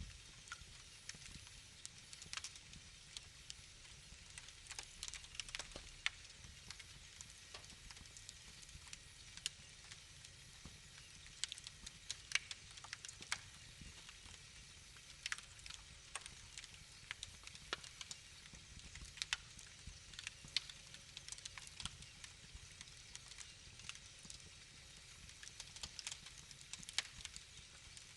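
Wood fire in a fireplace crackling: irregular sharp pops and snaps, several a second at times, over a soft steady low rush.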